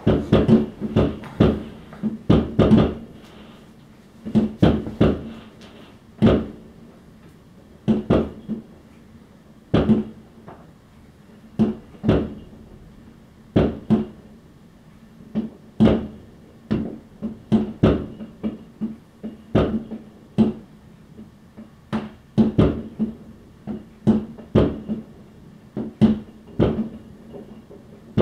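Fireworks going off: sharp bangs with short echoing tails, in quick clusters of two to four about every two seconds, the pattern of a firework battery or several shots firing in sequence.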